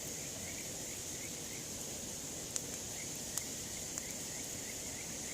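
Campfire with a few sharp pops from the burning wood, three close together around the middle. Underneath runs a steady high insect drone with a faint chirp repeating several times a second.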